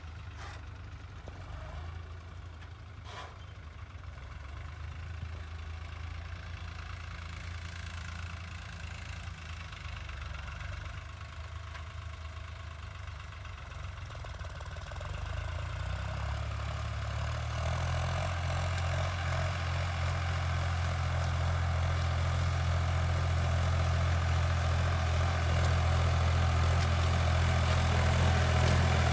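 New Holland 3600 tractor's three-cylinder diesel engine running at low speed with a steady low hum. It grows gradually louder, with the low note getting stronger from about halfway through.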